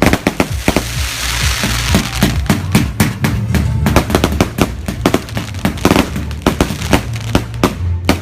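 Fireworks going off in a rapid, irregular string of bangs and crackles, several a second, with a hissing rush about a second in. Music with a steady bass line plays underneath.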